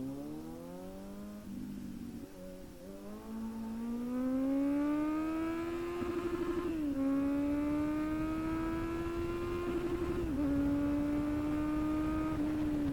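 Kawasaki Z900's inline-four engine revving hard in first gear, its pitch climbing, stuttering briefly at the top of the revs about six seconds in and again about ten seconds in, dropping a little each time, then holding high and easing off near the end. Low wind rush runs underneath.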